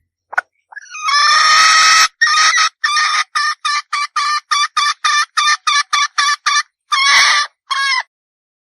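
Red junglefowl hen calling: a few short clucks, a long harsh call, then a rapid run of about fourteen clucking notes, roughly three a second, ending in two longer drawn-out notes.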